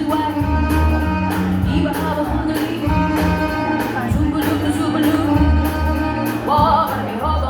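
Live band playing a jazz standard, with a steady beat.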